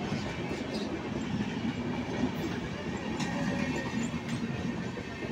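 Passenger coaches of the Jharkhand Sampark Kranti Express rolling slowly past, a steady noise of wheels running on the rails with a few faint knocks.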